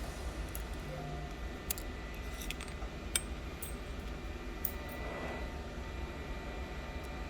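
Faint, sharp clicks and clinks of a small tool and loose glass pieces on an iPhone 11's cracked back glass, about half a dozen spread over a few seconds, over a steady low hum.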